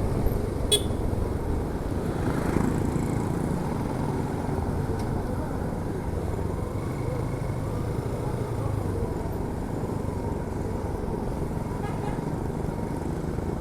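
Motorcycle riding at road speed: the engine running steadily under wind rushing over the rider's microphone, with a short click about a second in.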